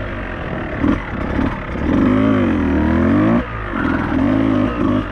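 Beta 200RR two-stroke enduro motorcycle engine under way, revving up and down with the throttle: held high for a stretch, it drops off briefly about three and a half seconds in, then picks up again.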